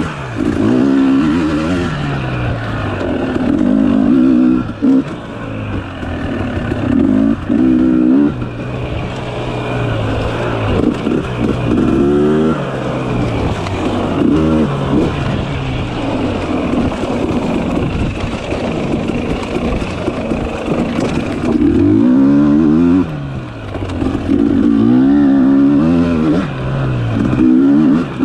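Dirt bike engine revving up and down on singletrack, throttle opened and closed every second or two, so the revs keep climbing and falling with brief drops when the throttle is shut.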